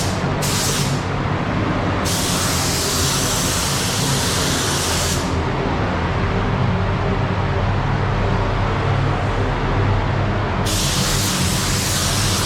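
Adhesion promoter being sprayed onto a car bumper, hissing in separate passes: two short bursts at the start, a longer one of about three seconds, and another starting near the end. A steady low hum runs underneath.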